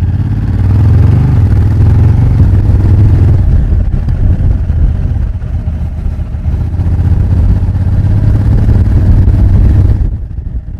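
Honda Africa Twin CRF1000L parallel-twin engine, heard close up at its exhaust pipe, running with deep, rapid firing pulses. It grows louder about a second in, eases off around four to five seconds, builds again and drops near the end.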